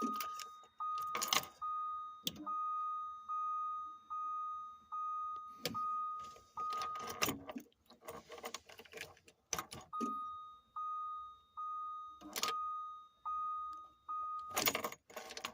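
An RV's dashboard warning chime beeps over and over as the ignition key is cycled to run the diesel's grid heater again, with sharp clicks of the key and switches. The beeping stops for about two seconds past halfway, then starts again.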